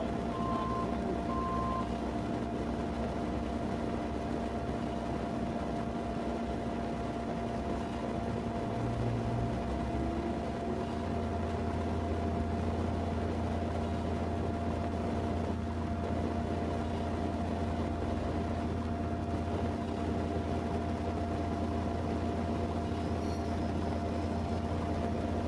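A vehicle running at idle with a steady low hum and fixed tones; the low hum grows stronger about eleven seconds in. A row of short, even beeps sounds during the first two seconds.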